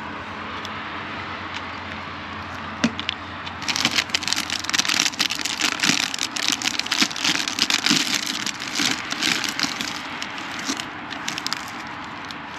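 Food sizzling and crackling in a hot frying pan, starting about four seconds in and easing off near the end, over a steady low hum.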